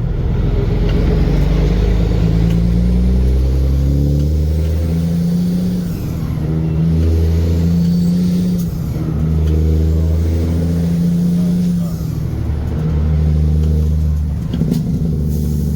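Heavy truck engine accelerating through the gears. The revs climb, then drop at each gear change, four times about three seconds apart.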